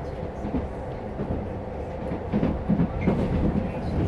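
Passenger train running, heard from inside the carriage: a steady low rumble, with a run of wheel clacks over the rail joints in the second half.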